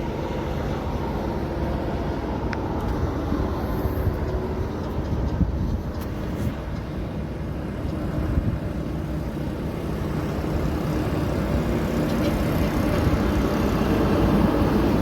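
Truck traffic on the road: a steady low rumble of engines and tyres that grows a little louder near the end.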